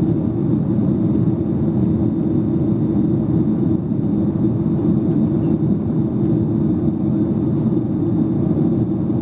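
Steady cabin rumble of a Boeing 737-800 in flight, heard from a seat by the wing: engine and airflow noise with no changes.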